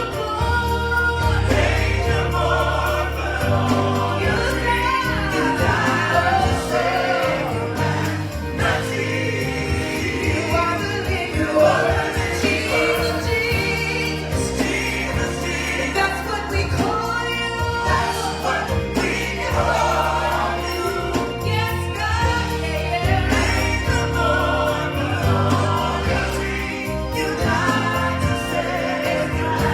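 Gospel choir singing with a live band accompaniment, bass and drums keeping a steady beat.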